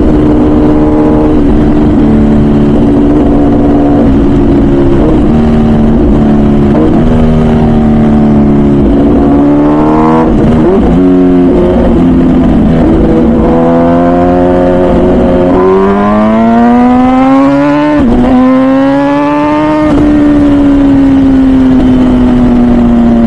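MV Agusta Brutale 1000RR Nurburgring's 998cc inline-four through its full titanium Arrow exhaust, heard while riding: a steady running note, then the revs climb in a rising note past the halfway point, drop back, climb again and slowly fall near the end as the rider rolls on and off the throttle.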